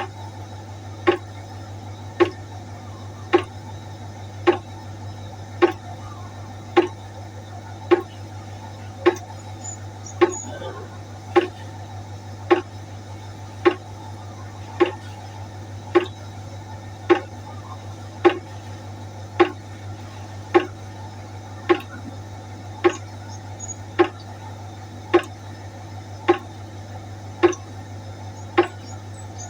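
Water droplets dripping steadily into a pot, one drop a little more than once a second, each a sharp plink with a short ring. A steady low hum runs underneath.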